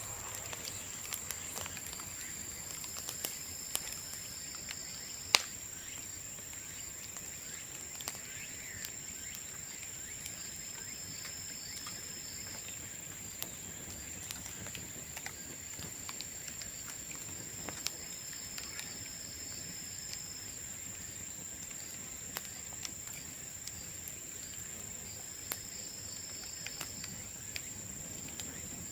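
Bonfire of bamboo crackling, with scattered sharp pops at irregular moments, the loudest about five seconds in. A steady high-pitched whine runs underneath, and a shorter, higher call comes back every several seconds.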